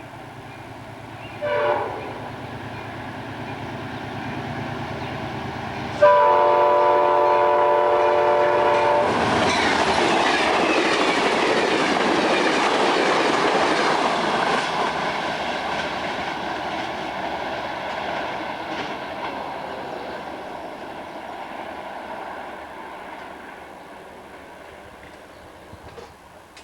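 A diesel locomotive hums as it approaches, then sounds its multi-chime air horn in one blast of about three seconds. The train then rolls past with a long rush of wheel and rail noise that slowly fades away.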